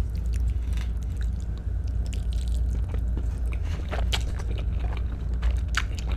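Close-miked eating: chewing and mouth clicks from spaghetti being eaten, with a few sharper clicks about four and six seconds in, over a steady low hum.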